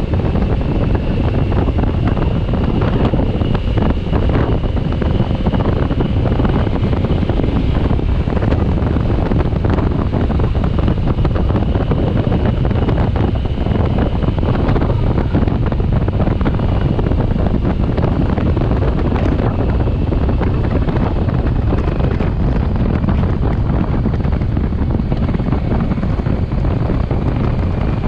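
Steady, loud wind rushing over the microphone of a motorcycle ridden at speed, with the bike's running and road noise underneath.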